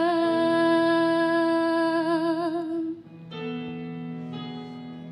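A singer holds the last note of a worship-song line with vibrato for about three seconds over sustained instrumental chords. The voice stops about three seconds in, and the chords carry on more quietly.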